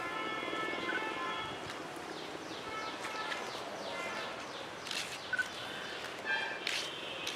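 Birds chirping and calling, with a run of quick falling notes about halfway through.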